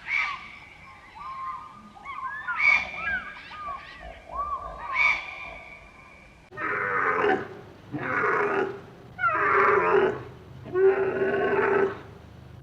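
Animal calls: a run of short, arching chirps for the first half, then after an abrupt change four long, drawn-out pitched calls about a second apart.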